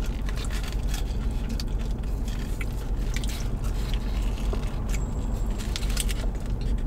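Chewing and biting into a plant-based cheeseburger with a soft bun, many small clicks of the mouth and food, with a fresh bite about four seconds in. A steady low hum runs underneath.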